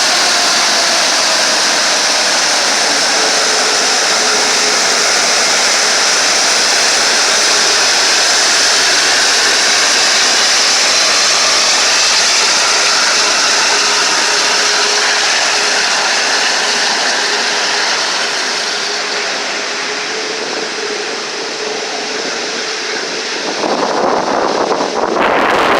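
Airbus A380's four jet engines running near idle close by, a loud steady jet whine and rush. The noise eases slightly, then about 23 seconds in jet blast buffets the microphone.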